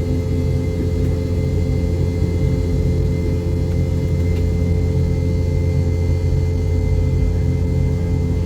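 Airliner cabin noise heard from inside the cabin: jet engines running with a steady deep rumble and a few constant hum tones, no change in pitch.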